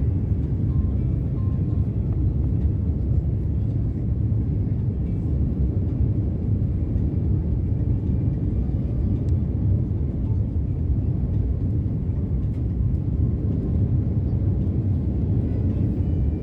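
Steady low rumble of airliner cabin noise, even throughout with no distinct events.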